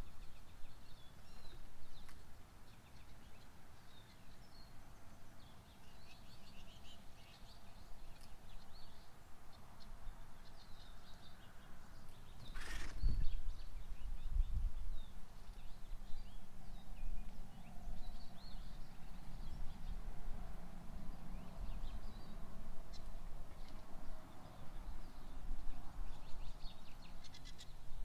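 Small birds chirping intermittently over a low background rumble, with one sharp thump about halfway through.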